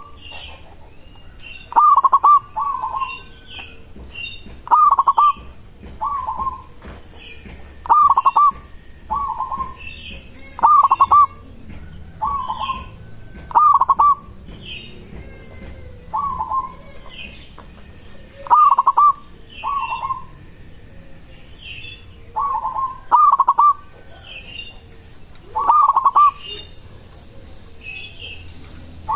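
Zebra dove (perkutut) cooing, repeating its phrase about every three seconds, each a loud coo followed by a softer one. Faint higher chirps from other small birds come between the phrases.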